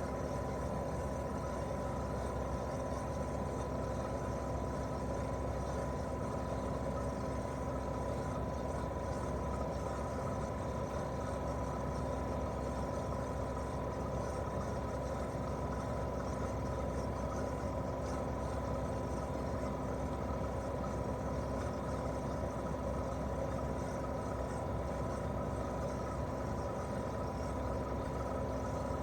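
Daikin R28RMV mini-split outdoor unit running steadily in heating mode: its twin-cylinder swing compressor and fan make an even hum with a thin steady whine.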